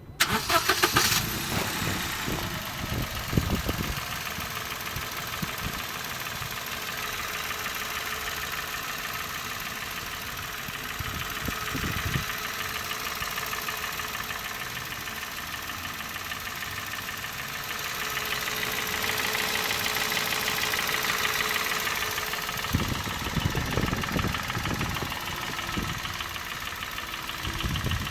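Toyota Yaris 1KR-FE three-cylinder petrol engine starting up and then running with a knock whose cause the owner is asking about. The sound grows louder for a few seconds about two-thirds of the way through.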